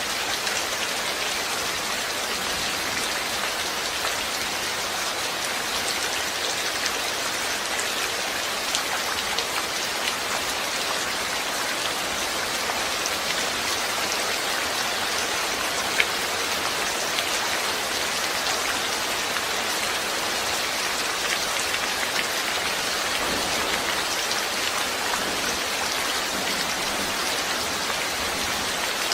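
Steady rain falling and pattering on a surface, an even hiss with scattered individual drop ticks; one sharper drop tick about halfway through.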